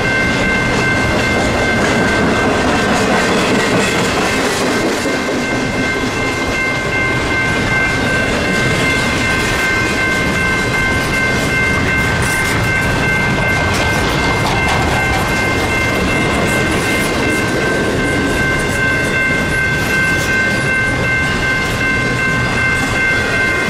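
A train's cars rolling past, with wheels clacking over the rails and a steady, unchanging high-pitched whine held throughout.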